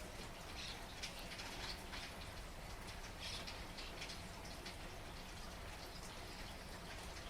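Steady, faint rain falling, with scattered drops pattering on hard surfaces.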